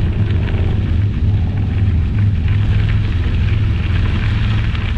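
Steady wind buffeting a GoPro's microphone mounted on an electric scooter moving along, heard as a dense low rumble.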